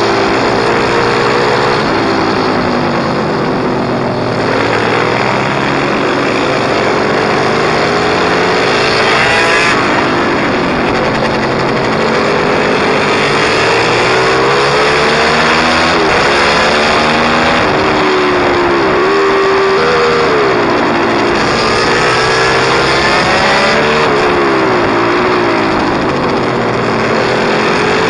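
Pit bike's small single-cylinder engine revving hard and easing off over and over, its pitch climbing and dropping back every second or two as it accelerates and shifts.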